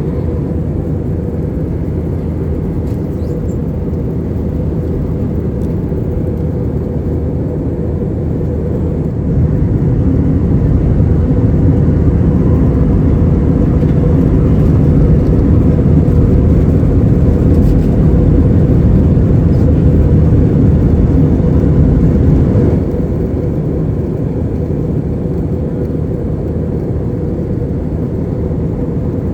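Airliner taking off, a steady low rumble of engines and airflow. It gets louder about nine seconds in and settles back down about thirteen seconds later.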